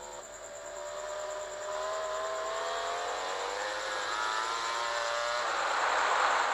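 MotoGP racing motorcycle engines at full throttle, pitch climbing slowly as the bikes accelerate and growing louder. About five seconds in, the steady note gives way to a louder, rougher rush of engine noise.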